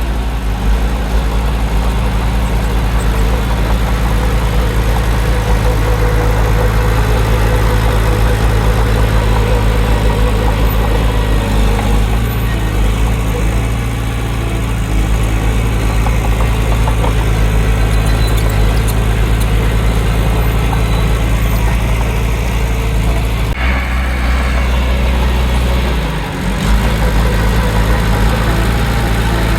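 Heavy diesel engine of earthmoving machinery running steadily. Its low note shifts about 24 seconds in, then briefly dips a couple of seconds later before steadying again.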